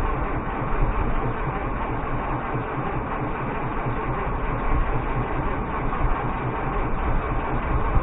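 Galion 503 grader's International Harvester UD-236 diesel engine turning over steadily in a hard cold start, after months of sitting in below-freezing weather with the glow plugs just used.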